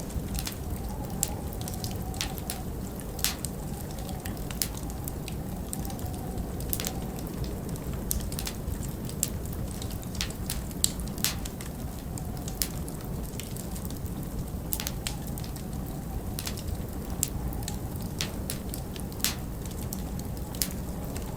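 Wood fire crackling, with irregular sharp pops, over a steady low rumble of storm wind; a faint wavering wind whistle comes and goes.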